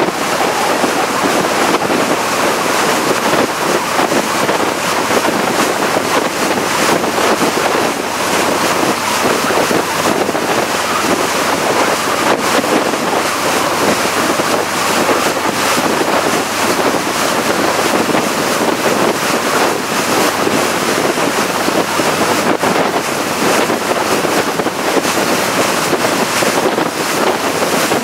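Loud, steady rush of wind buffeting the microphone, mixed with water noise from a boat under way.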